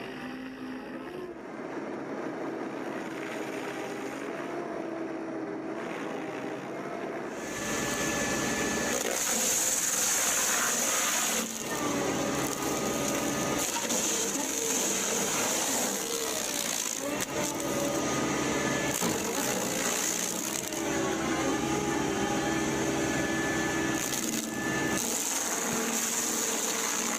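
Industrial wood-processing machinery at work on timber. It runs quieter at first, then becomes much louder about seven seconds in, with a dense, high-pitched noise of wood being cut or broken up.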